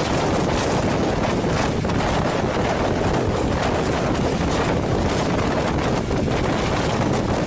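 Passenger train running at speed, heard from a microphone held out of a coach window: steady wind buffeting the microphone over the rumble of the coaches on the track.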